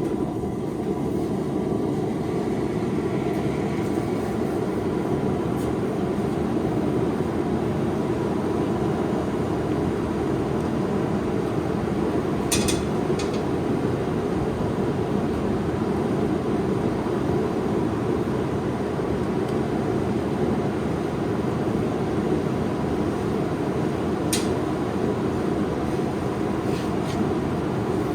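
A fan blowing with a steady rushing roar, with a few faint sharp ticks about halfway through and again near the end.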